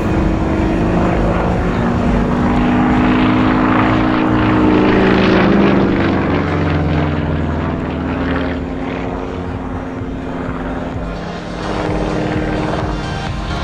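Single-engine aerobatic plane with a nine-cylinder radial engine and propeller, flying overhead. The engine note slides down in pitch about halfway through, eases off, and swells again near the end.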